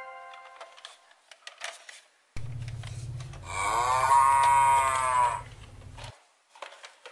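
A cow's moo: a low rumble starts abruptly, then one long moo rising and falling in pitch, and the sound cuts off suddenly. Before it, the tail of a chime dies away and light plastic clicks of toy parts being handled are heard.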